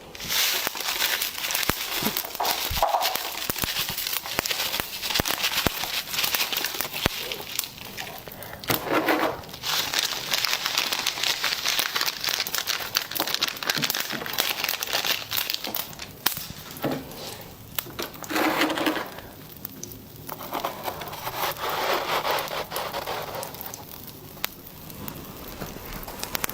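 Soft, powdery freezer frost crunching and crackling as it is bitten and chewed close to the microphone.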